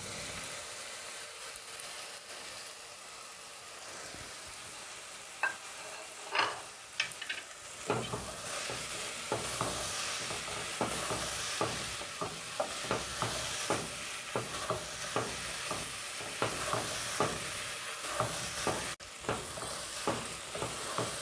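Chopped okra frying in hot oil with onion-tomato masala, a steady sizzle. A spatula scrapes and knocks the pot as it is stirred, a few strokes at first, then regular strokes about twice a second from about eight seconds in.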